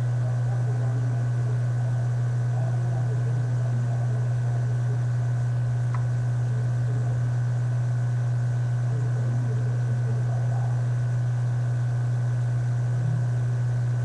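A steady low hum with an even level, faint wavering sounds above it, and one faint click about six seconds in.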